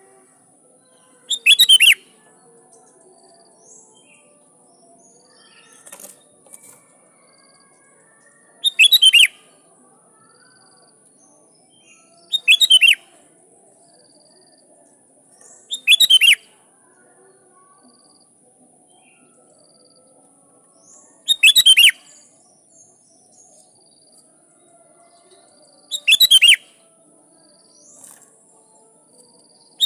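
Sooty-headed bulbul (kutilang) calling: about six short, loud, bubbling phrases spaced three to six seconds apart. A faint steady high-pitched tone runs underneath.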